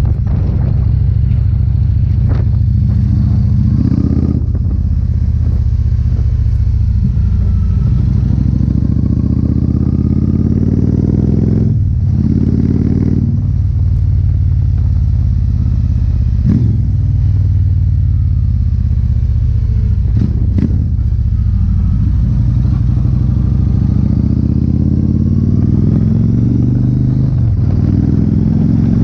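Yamaha Stratoliner XV1900's air-cooled V-twin running through a Freedom Performance aftermarket exhaust, with a deep, steady low note. It mostly holds at idle, and the revs rise briefly a few times, around 4, 12, 16 and 27 seconds in.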